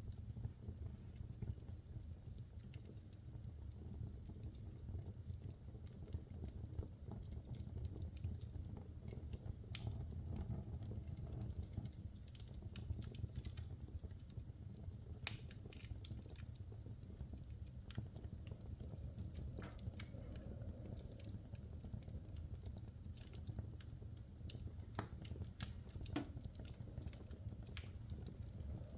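Wood fire burning in an open fireplace: a steady low rumble of flame with irregular sharp crackles and pops from the burning logs, a few louder pops standing out.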